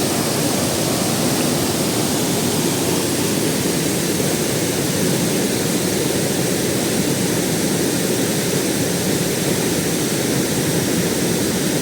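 Waterfall: a steady, unbroken rush of falling water over rocks.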